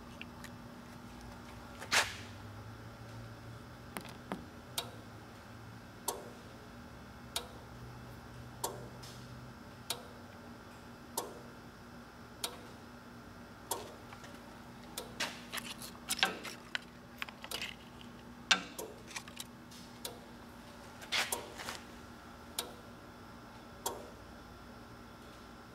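Sharp mechanical clicks repeating about every second and a quarter, more tightly bunched in the middle stretch, over a steady machine hum, with a low rumble in the first third.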